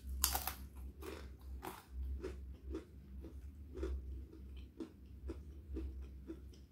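A person chewing a mouthful of food close to the microphone, in regular chews about twice a second, with a loud crisp bite just after the start.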